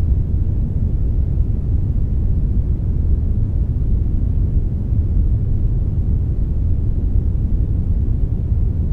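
Steady synthetic brown noise blended with a little white noise: a deep, even rumble with most of its weight in the bass and a faint hiss above, unchanging throughout.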